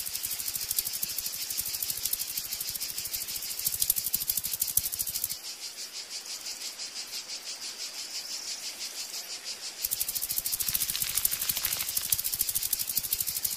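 Insect chirring: a fast, even, high-pitched rattle of rapid pulses, like a cricket or cicada stridulating. It goes somewhat quieter for a few seconds in the middle, then comes back at full strength.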